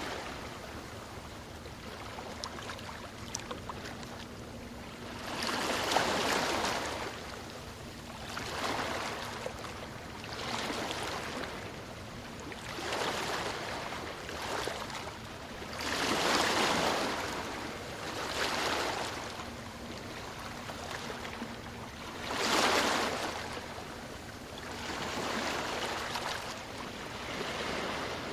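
Ocean waves breaking and washing up the shore in repeated surges every two to three seconds, with the biggest ones about six, sixteen and twenty-two seconds in.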